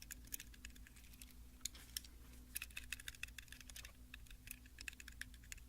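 Light, quick, irregular tapping and clicking on a toy car, several small clicks a second, soft and close.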